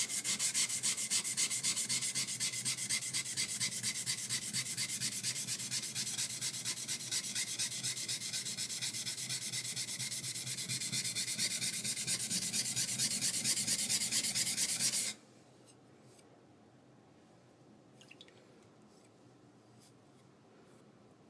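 High-speed steel knife blade rubbed back and forth flat on a whetstone in quick, even strokes, several a second, grinding down the blade's back to flatten it. The strokes stop abruptly about fifteen seconds in, leaving only faint clicks.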